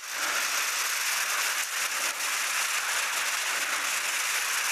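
Bicycle tyres rolling over a gravel road, a steady gritty hiss with faint ticks that starts abruptly.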